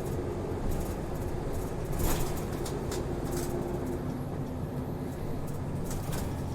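Interior sound of a city route bus: the engine running with a steady low hum, and a few sharp clicks and rattles from the cabin, the loudest about two seconds in.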